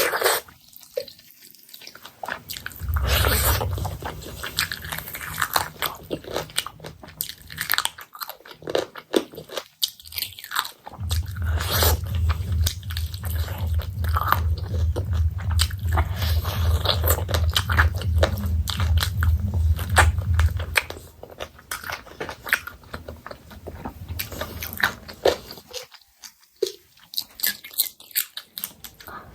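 Close-miked eating: biting and chewing chicken curry, with many small wet clicks and crunches. A low hum sits beneath the chewing for about ten seconds in the middle.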